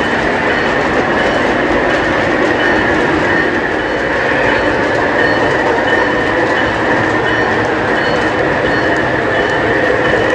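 O gauge model trains running on the layout's track: a steady rumble of wheels on rails and motor hum.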